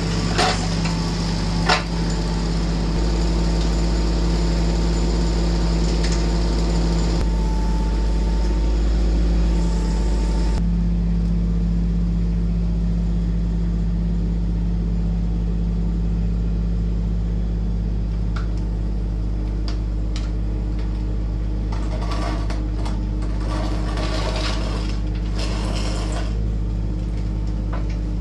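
An engine idling steadily, with two sharp knocks in the first two seconds.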